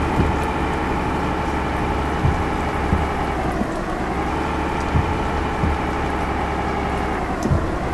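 Truck engine running while driving, its pitch dipping and climbing back twice, about four seconds in and again near the end, over a steady road noise with a few short low thumps.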